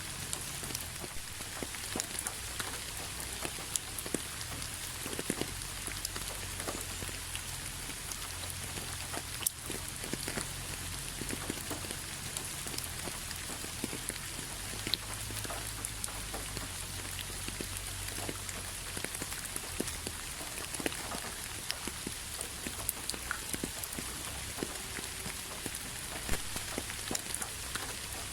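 Steady rain falling, with many separate drop hits ticking through an even hiss and a low steady rumble underneath.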